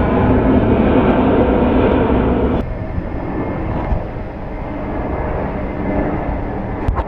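Loud, steady jet airliner engine noise from a Boeing 747-8 freighter, which cuts off abruptly about two and a half seconds in. Quieter steady jet noise from an Airbus A320neo follows.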